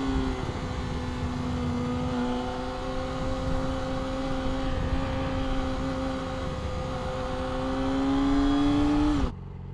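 Yamaha R6's inline-four engine running at a steady high note under way, with wind rush. The pitch creeps up, then the throttle is shut abruptly near the end and the engine note falls away.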